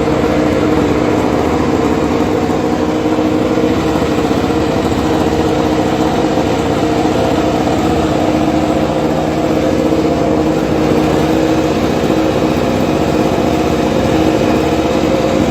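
Motorcycle engine idling steadily through its exhaust, holding an even pitch without revs.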